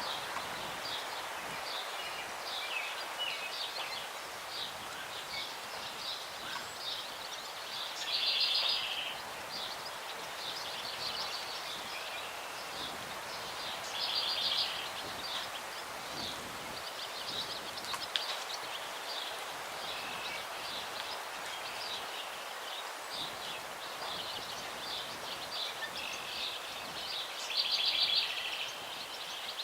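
Several small songbirds chirping and singing continuously over a steady breeze in the trees, with a louder trilled song phrase about a second long heard three times.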